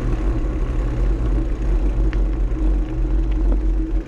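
Steady low rumble of wind and ride noise on a camera carried on a moving bicycle, with a faint steady hum and a few light ticks.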